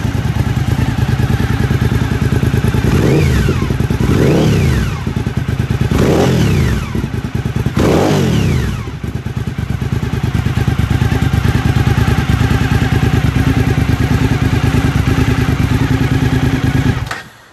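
Suzuki SV1000S 90-degree V-twin running through a black Pipe Werx exhaust with the baffles removed: a loud idle blipped four times in quick succession, each rev climbing and falling back. It settles back to a steady idle, and the sound stops abruptly near the end.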